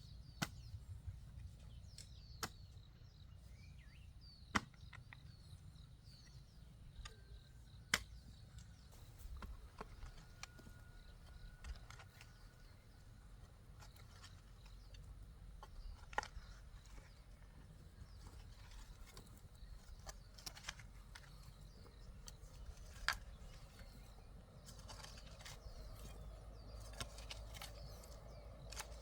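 Sharp single knocks or taps, several seconds apart, over a low steady outdoor rumble, with faint bird calls near the start.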